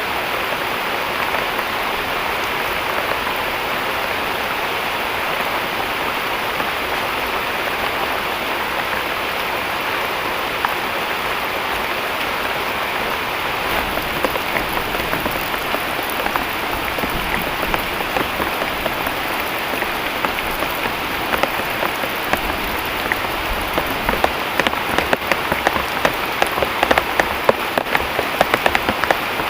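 Heavy rain falling steadily, with sharp strikes of individual drops growing more frequent over the last five seconds or so.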